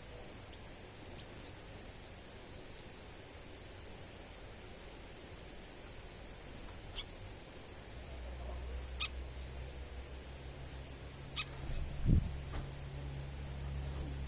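Small birds chirping: short, high-pitched calls repeated in scattered runs. A steady low hum comes in about halfway through, and a low thump sounds near the end.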